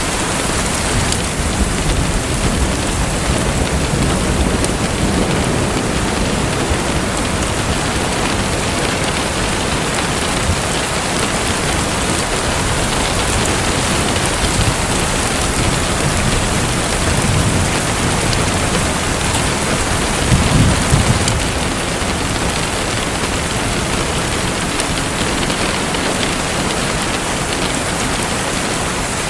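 Steady heavy rain hissing, with low rolls of thunder swelling twice in the second half, the stronger about twenty seconds in.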